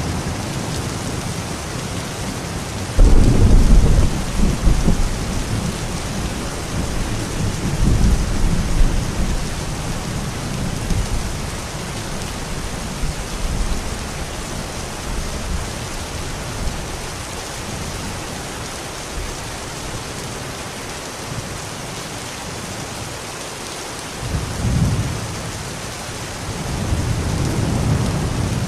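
Steady rain with rolling thunder. A loud clap of thunder breaks in suddenly about three seconds in, and further rumbles swell around eight seconds and again near the end.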